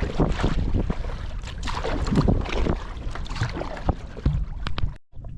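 Kayak on choppy open water: irregular splashing of water around the hull and paddle, with wind buffeting the microphone. The sound cuts off abruptly near the end.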